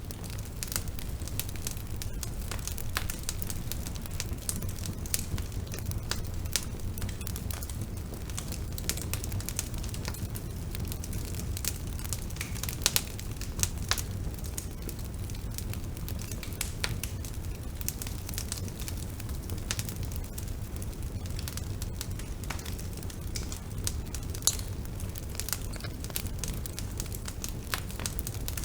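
Bonfire burning with a steady low rumble and frequent irregular pops and crackles of burning wood.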